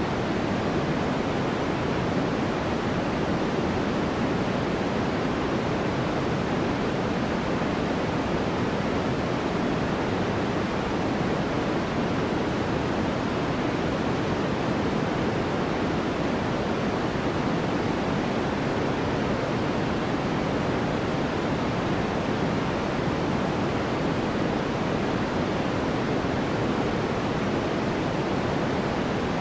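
Steady generated white noise for sleep: an even, unchanging hiss weighted toward the lower-middle range and fading off in the highs.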